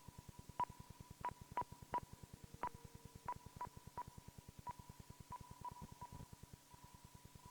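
Eerie electronic synthesizer effect: a steady high tone with irregular pings or clicks over a fast, even low pulsing, fairly quiet.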